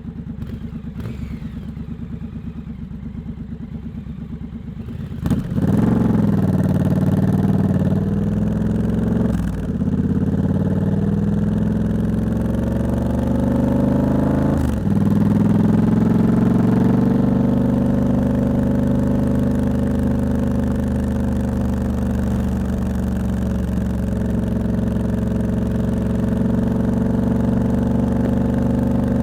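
Triumph Scrambler 1200X parallel twin through its quite loud Hitchcox exhaust, ticking over at first. About five seconds in it opens up hard and pulls away, rising in pitch with two quick drops where it shifts up, then settles into a steady cruise.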